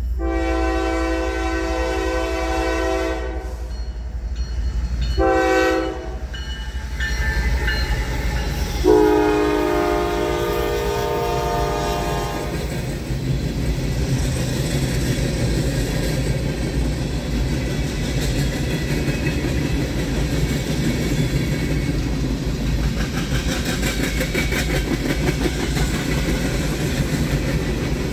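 Diesel freight locomotive sounding its multi-note air horn: a long blast, a short one and another long blast. Then comes the steady rumble and rhythmic clacking of the train's wheels rolling past.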